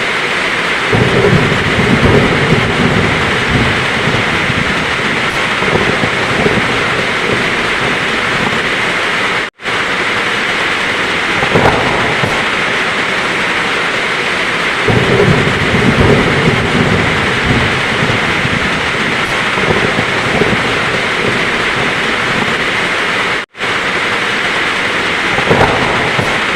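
Heavy rain falling steadily in a thunderstorm, with thunder rumbling low twice, each rumble lasting several seconds. The sound cuts out for an instant twice.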